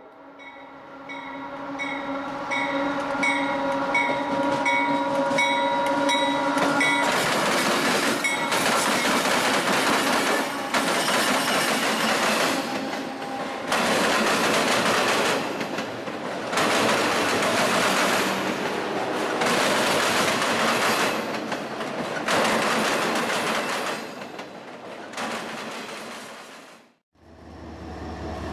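Freight train locomotive's horn sounding a long steady chord for about seven seconds, with a bell ringing about twice a second. Then the train rolls close past: a loud clatter of wheels over the rail crossing diamond that swells and eases as each autorack car goes over. It cuts off suddenly near the end.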